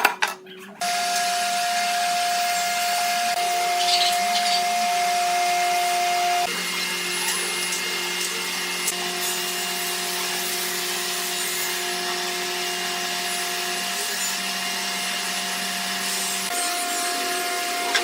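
Electric woodworking power tool motor running steadily, a constant whine over a hiss that starts about a second in and shifts in pitch about six seconds in.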